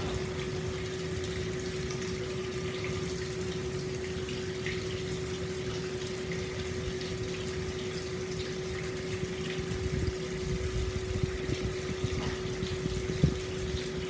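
Hot-spring water pouring steadily into an open-air stone bath, with a steady low hum underneath and a few small splashes and drips in the second half.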